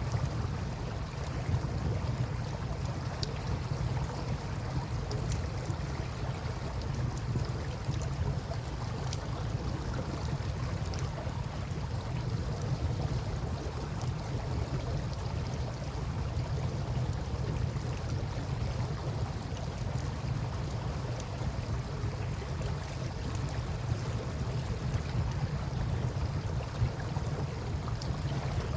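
Campfire crackling, with scattered small pops and snaps, over a steady low rumble and the wash of flowing river water.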